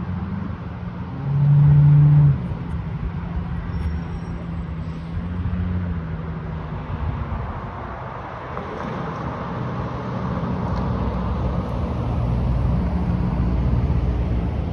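Fire truck diesel engines running, the low rumble building up in the second half as the apparatus moves off. A loud, low steady tone sounds once for about a second, about a second in.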